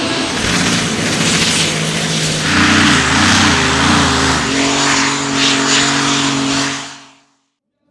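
Competition pulling tractor engines running loud under power, a steady engine note with a strong hiss over it that shifts pitch a couple of times. The sound fades out near the end.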